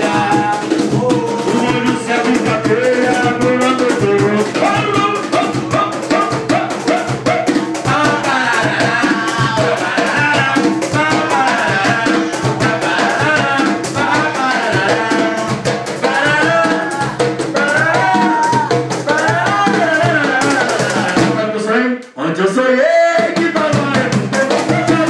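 Band music with a fast shaker and drum beat under a melodic lead line. About three-quarters of the way through, the music drops out for a moment and comes back in with a rising slide.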